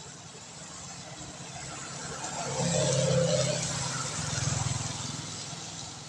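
A motor vehicle passing on a wet road: engine hum and the hiss of tyres on wet asphalt swell to a peak about three seconds in, then fade away.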